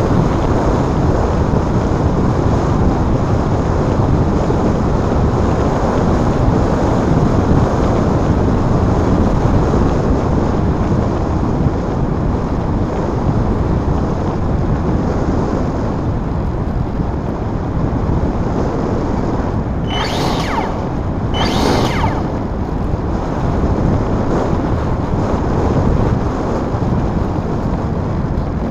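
Wind buffeting the microphone, a loud steady rumble with no engine or motor tone in it. Two short hisses come about a second and a half apart, near the end.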